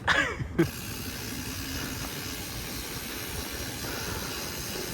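Steady hiss of BMX bike tyres rolling over a dirt trail, mixed with wind noise, after a short falling pitched sound in the first half second.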